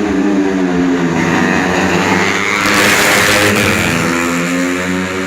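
Four-stroke 125 cc underbone race motorcycles running at high revs. The engine note gets louder and fuller about three seconds in, as a bike passes close, then eases back.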